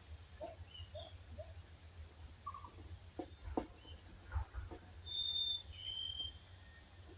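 Wild birds singing: from about three seconds in, a series of clear whistled notes steps down in pitch one after another, and starts again near the end. Underneath are a steady high insect-like drone, a few short low calls and clicks, and a low rumble.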